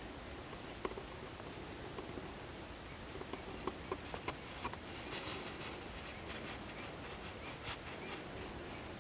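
Night-forest ambience: crickets keep up a steady high-pitched chirring over a soft hiss. A few sharp clicks come in the first half, then a quick run of chirps in the middle.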